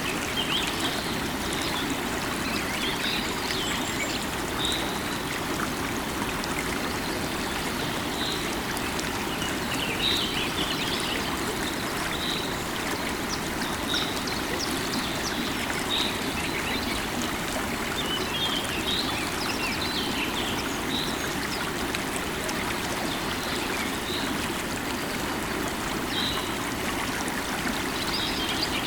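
River water running steadily, with small birds giving short chirps again and again.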